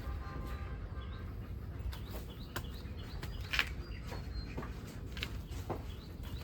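Scattered short clicks and knocks with faint bird chirps over a steady low rumble.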